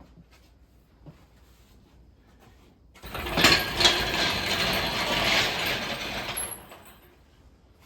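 A dense mechanical rattle from a wrench or power tool working a bolt loose to take off the engine's fan belt. It starts about three seconds in and lasts about four seconds, after a few faint clicks.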